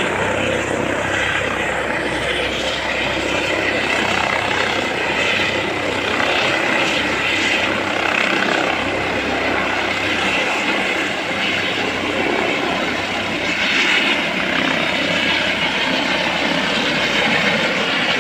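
Helicopter running: a steady, loud noise of rotor and engine.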